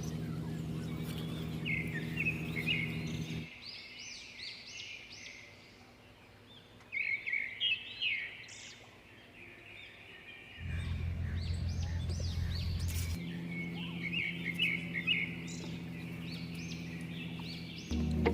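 Small birds chirping in quick repeated clusters of short high calls, over a low steady hum that drops out after about three seconds and comes back near the middle.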